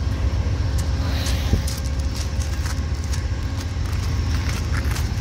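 Steady low rumble and hum from a stopped Amtrak passenger train idling at the platform, with a few light clicks scattered through.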